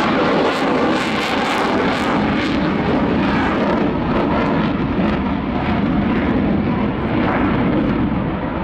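Twin jet engines of a Swiss Air Force F/A-18 Hornet, loud and steady throughout, with a crackling edge in the first couple of seconds.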